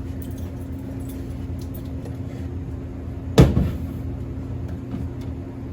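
A single loud knock, like metal or a tool striking a panel, about three and a half seconds in, over a steady low background hum.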